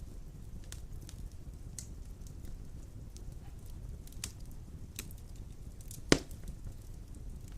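Wood fire of large logs burning in a stone fireplace: a steady low rush of flame with scattered crackles, and one loud pop about six seconds in.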